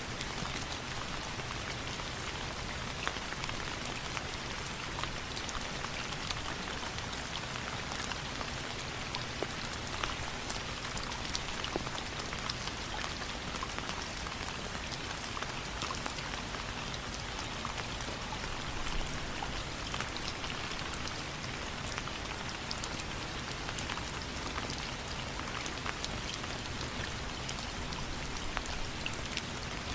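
Steady rain falling, an even hiss with many small sharp ticks scattered throughout.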